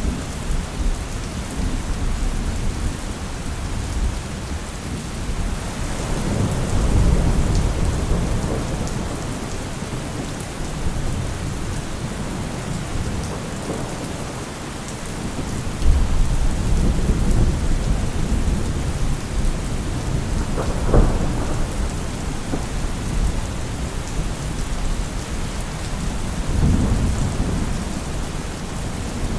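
Steady heavy rain with rolling thunder. Low rumbles swell and fade several times, and a sharper crack of thunder comes about two-thirds of the way through.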